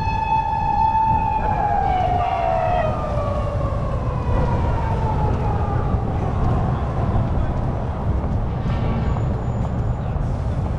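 An emergency vehicle's siren holds a steady tone, then slides down in pitch and fades over the next few seconds, over a steady rumble of city traffic.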